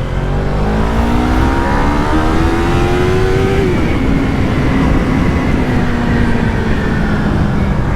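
Yamaha MT-03's parallel-twin engine through its stock exhaust, accelerating hard: the revs climb for about three and a half seconds, drop sharply at an upshift, then hold and ease slightly in the next gear.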